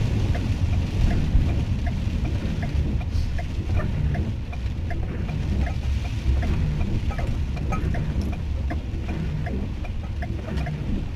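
Van cabin noise while driving slowly on a slushy road: a steady low engine and road rumble, with faint short ticks scattered through it.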